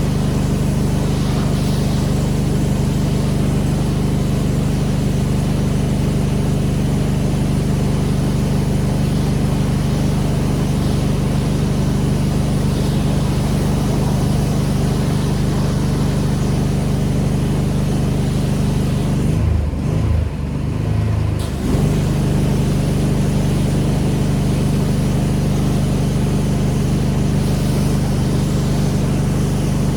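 A pressure washer's engine runs steadily under the hiss of the high-pressure spray. About two-thirds of the way through, the spray hiss stops for about two seconds while the engine note shifts, then the spray resumes.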